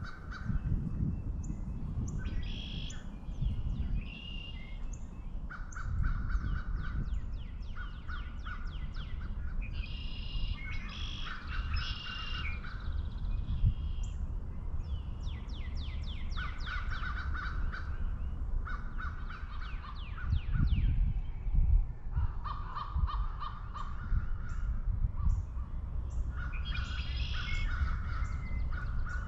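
Crows cawing in repeated series of harsh calls, several runs one after another, over a steady low rumble.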